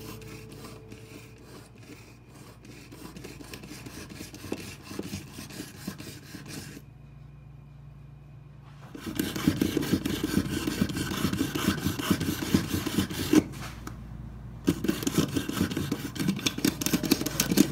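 Fast, repeated hand scraping and rubbing from kitchen food preparation, in three stretches split by brief silent cuts. It grows clearly louder about nine seconds in.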